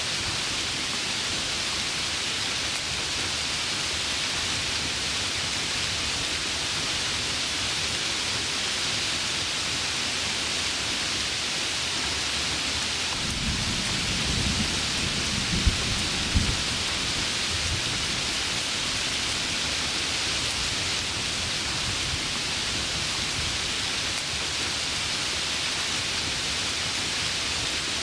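Heavy rain falling steadily, with a roll of thunder rumbling about halfway through that holds two sharp cracks.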